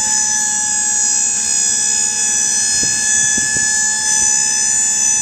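Electric motor-pump of a double-acting electric dump hoist running steadily with a high whine as it powers the dump bed up.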